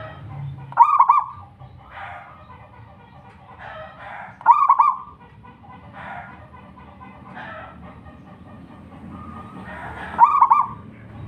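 Zebra dove (perkutut) cooing: three loud, short call phrases, about a second, four and a half seconds and ten seconds in, with fainter calls between them.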